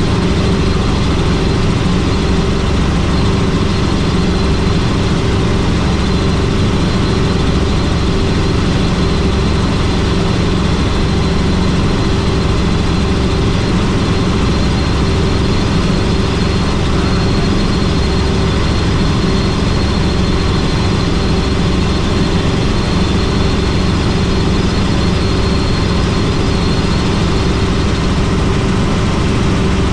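Helicopter in flight: steady, loud engine and rotor noise with a faint high whine that fades near the end.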